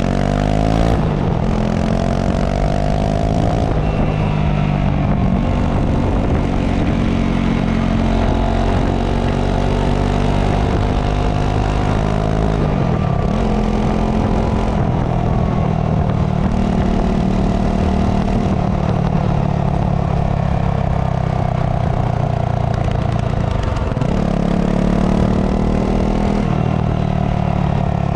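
Honda CRF250 Rally's single-cylinder engine running through its stock exhaust. The note rises and falls with the revs, dipping sharply and climbing again about halfway through and again near the end.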